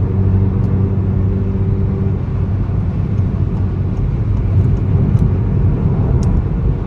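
Car exhaust drone at highway cruising speed, through a TCR muffler and an aftermarket downpipe with a 200-cell metal catalytic converter: a steady low hum over road rumble. About two seconds in, the steady hum gives way to a rougher rumble. The drone is bearable but noticeable.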